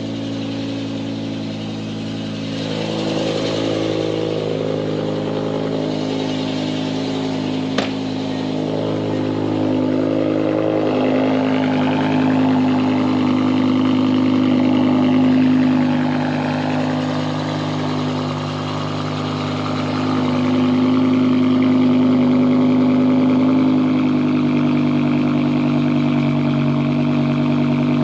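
BMW E60 M5's 5.0-litre V10 engine running at low revs, mostly steady with a few gentle swells in level. There is one sharp click about eight seconds in.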